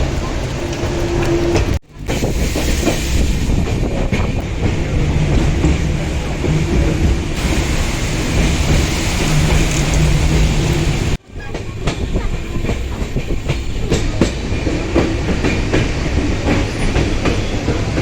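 Passenger train running, heard from on board: a steady rumble with the wheels clacking over the rail joints. The sound drops out briefly twice.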